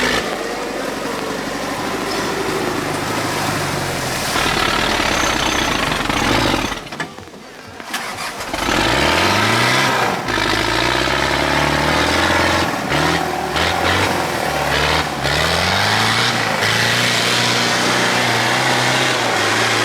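Tractor engine running under load. After a brief drop-out about seven seconds in, it revs up again and again in rising sweeps.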